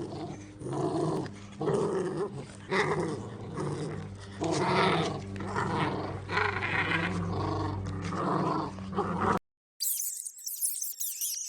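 A dog growling in a run of repeated rough bursts, one or two a second, cut off abruptly about nine seconds in.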